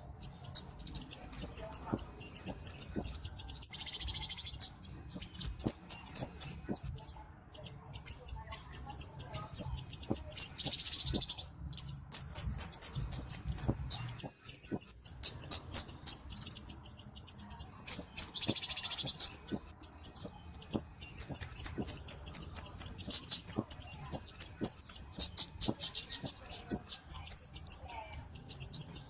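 Flowerpecker (burung cabe-cabean, Kemade) calling: fast runs of very high, thin ticking chips in bouts of one to several seconds, with short pauses between them. The longest run comes in the last third.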